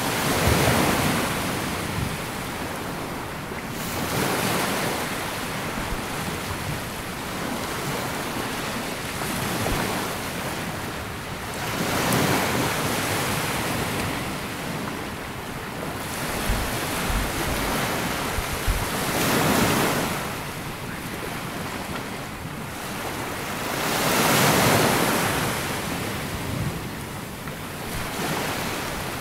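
Sea waves breaking and washing up a sandy beach, a swelling rush of surf every few seconds. Wind buffets the microphone with low thumps midway.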